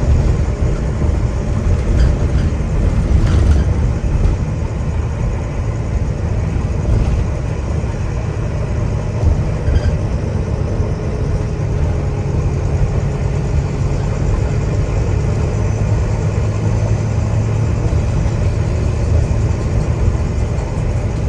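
The diesel engine of a Wright Gemini 2 double-decker bus (Volvo B9TL) pulling along, heard from inside the bus as a steady low rumble with road noise. A few light rattles come in the first few seconds, and the engine note rises a little partway through as it works harder.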